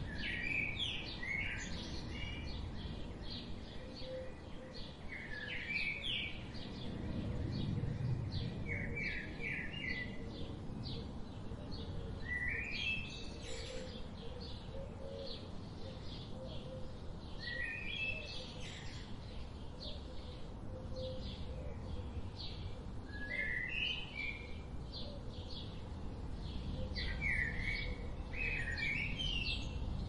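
Birds chirping: short phrases of quick rising notes come every few seconds over a fast, steady series of brief high notes, with a low outdoor rumble beneath.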